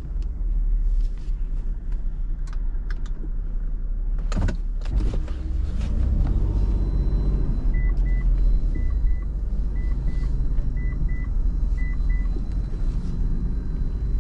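Car engine and road rumble heard from inside the cabin, with a single knock about four and a half seconds in. From about eight seconds in, the car's electronic warning chime beeps at roughly two short high beeps a second for a few seconds.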